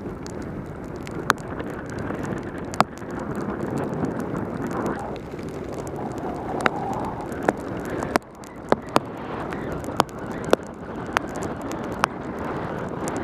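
Wind rushing over a helmet camera's microphone and tyre noise on a wet road during a fast mountain-bike descent in pouring rain, with a dozen or so sharp irregular ticks scattered through.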